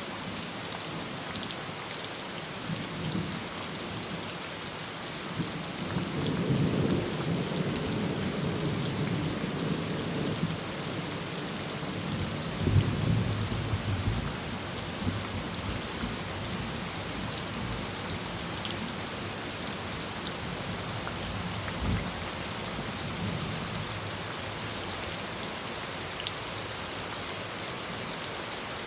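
Heavy rain drumming on a tin roof, with thunder rumbling in about six seconds in, a louder clap near the middle and a shorter rumble later.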